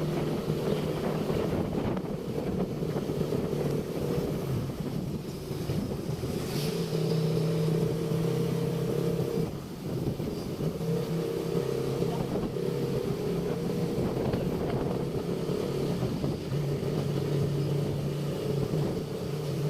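Motorcycle engine running at a steady speed under way, a held drone that eases briefly a few times, with wind and road noise.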